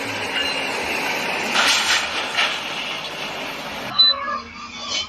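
Steady running noise of a moving vehicle, an even wide hiss and rumble, with two short clatters in the middle. It cuts off abruptly about four seconds in to a quieter, different scene.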